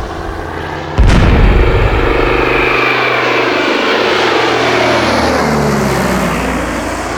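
Catalina PBY-5A flying boat's twin Pratt & Whitney R-1830 radial engines droning in a low flypast. The sound jumps louder about a second in, then the engine pitch falls steadily as the aircraft passes.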